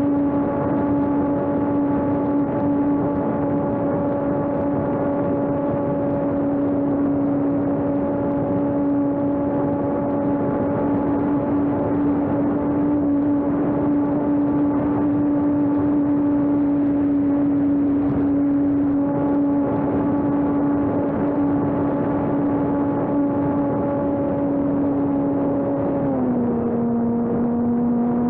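Electric motor and propeller of a homemade radio-controlled airplane running at steady throttle, a constant whine over rushing air noise. The pitch drops a step near the end as the throttle is eased.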